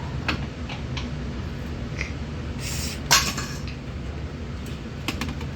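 Small metal clinks and ticks from tools and parts being handled, with a brief scraping rush about three seconds in, over a steady low hum.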